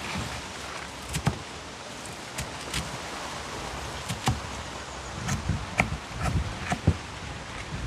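Knife cutting through cabbage: irregular clicks and knocks, a few of them louder and more frequent in the second half, over a steady hiss.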